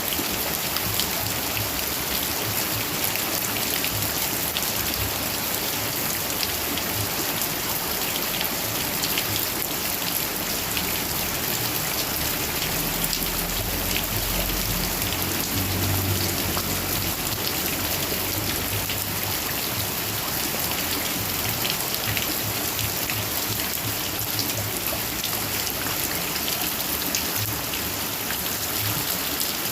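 Heavy rain falling steadily, with many sharp drop impacts close by. A low rumble swells and fades a little before the middle.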